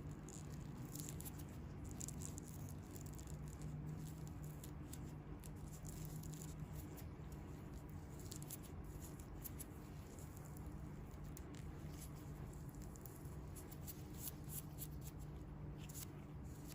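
Hands working on bare feet: faint, irregular crackling and rubbing with soft ticks, over a steady low hum.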